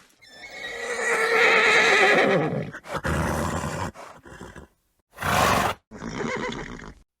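A horse neighing: one long, wavering whinny that falls in pitch at its end, followed by several shorter, breathier horse sounds with sharp silent gaps between them.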